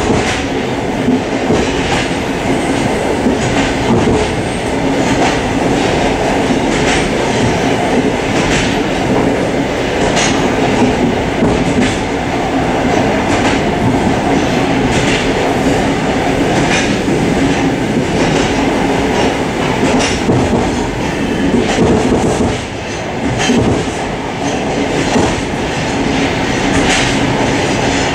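Suburban passenger train running at speed, heard from inside its vestibule: a steady rumble of wheels and carriage with repeated clacks of the wheels over rail joints. The noise drops briefly about three quarters of the way through.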